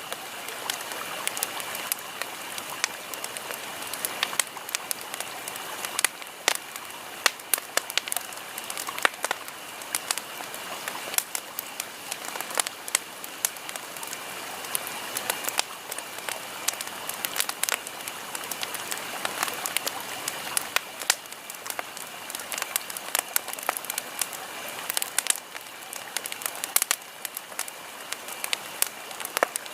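Campfire burning: wood crackling and popping in irregular sharp snaps over a steady hiss.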